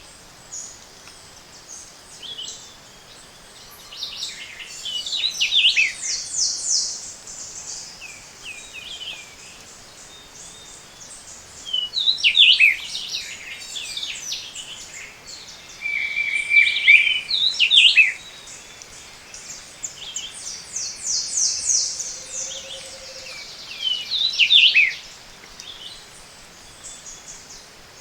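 A morning chorus of tropical montane forest birds, several species singing in overlapping phrases. Fast high trills come in two long runs, and loud downward-sweeping whistled phrases come four times, over a steady background hiss.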